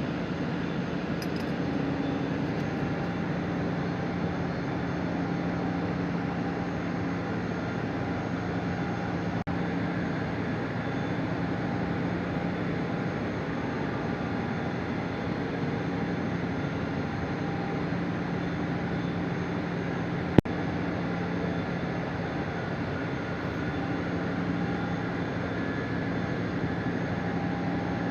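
Refrigerator compressor running with a steady hum and hiss; one sharp click about twenty seconds in.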